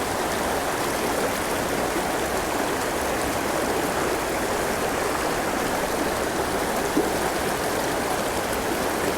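Steady rushing of a canyon stream flowing over rocks into pools, an even wash of water noise.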